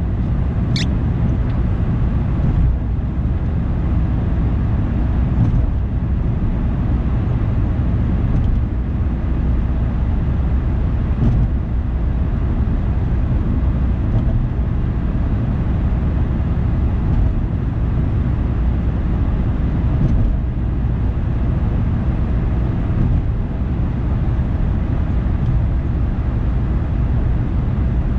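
Car driving: steady low road and engine rumble, with a brief high squeak about a second in.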